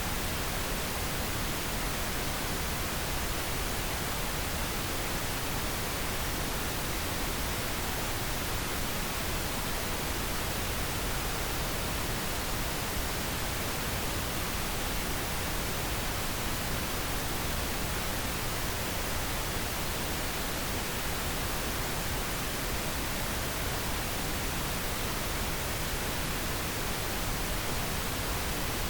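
Steady pink noise: an even, unbroken hiss that never changes.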